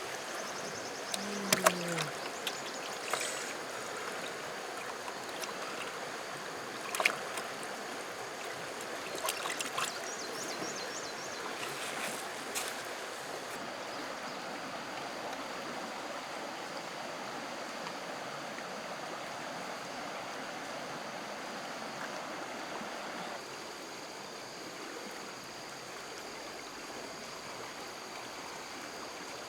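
Flowing stream water, a steady rushing. A few sharp knocks or clicks come over it in the first dozen seconds, with a short falling vocal-like sound about a second in. The water gets slightly quieter about two-thirds of the way through.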